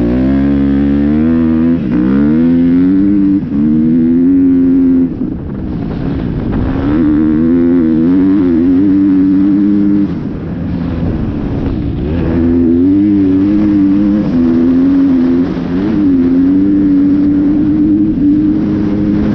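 Dirt bike engine accelerating hard and running up through the gears. Its pitch climbs, then falls back at each shift or throttle chop, about half a dozen times.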